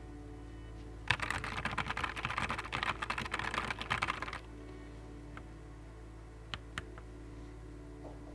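Fast typing on a Nuphy Air 75 V2 low-profile mechanical keyboard: a quick run of key clicks lasting about three seconds, then a few single keystrokes.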